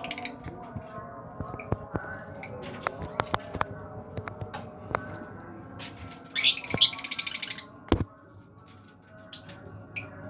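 Lovebirds chirping in short high calls among many sharp clicks and knocks, with a loud rapid burst of shrill chattering about six seconds in.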